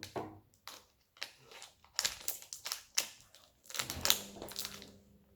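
Plastic toy packaging crinkling in irregular bursts as it is handled and opened.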